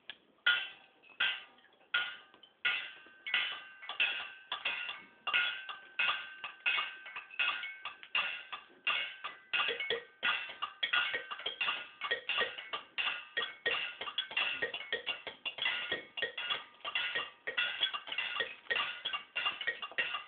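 A group of children playing a rhythm on found-object percussion, sharp ringing strikes on a steady beat that grows busier and more layered about halfway through.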